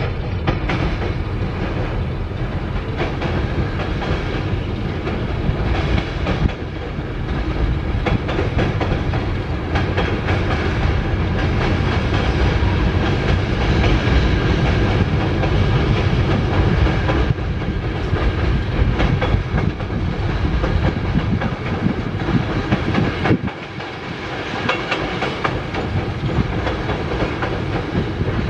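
Freight train of autorack and tank cars rolling across a steel girder bridge: a continuous rumble of wheels on rail, with repeated clicks and thin high ringing tones over it. The sound eases briefly about three-quarters of the way through, then builds again.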